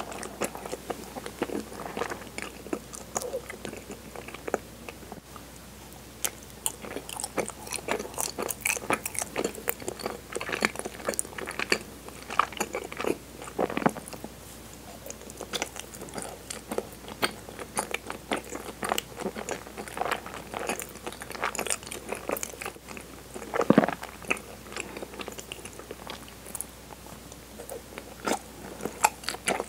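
Close-miked chewing and biting of soft, sticky chigiri mochi dusted in cinnamon powder: a steady run of small mouth clicks and smacks, with one louder bite about three-quarters of the way in.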